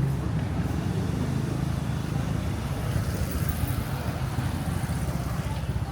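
A motor vehicle's engine running close by in street traffic, with a low, rapid pulsing that slowly fades.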